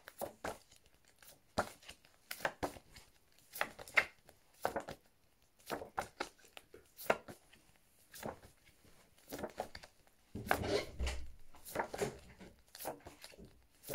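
Paper flashcards being handled and flipped in quick succession: short papery rustles and taps, one or two a second, with a low bump and rumble of handling about ten seconds in.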